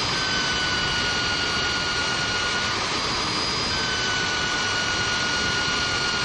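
Electric power tool running steadily under load, a loud rushing noise with a high whine whose pitch wavers and briefly drops out about halfway through.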